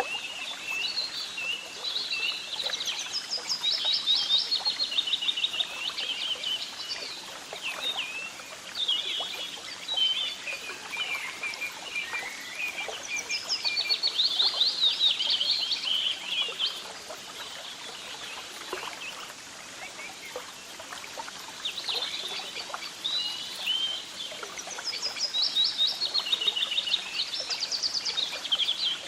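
Several songbirds singing and chirping, with rapid trills and repeated high phrases overlapping throughout, over a faint outdoor background hiss.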